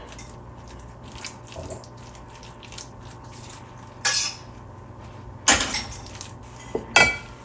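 Kitchen handling sounds: faint scattered clicks, with three louder short clatters of dishes and utensils about four, five and a half and seven seconds in.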